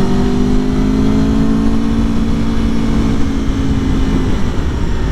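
2021 Aprilia Tuono Factory's V4 engine under way: its note steps up in pitch as the throttle opens, climbs slightly and eases off about four seconds in, over steady wind rush.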